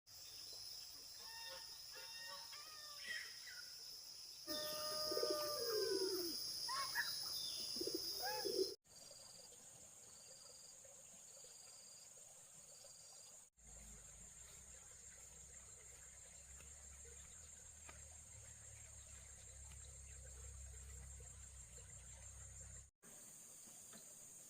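Countryside ambience in several cut-together segments: birds chirping and calling over a steady high insect drone for the first nine seconds, then short repeated high notes, then a continuous high insect trill with a low rumble.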